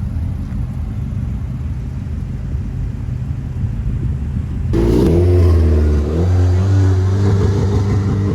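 Car engines rumbling low, then about five seconds in a louder car engine comes close, its pitch rising and falling as it is revved.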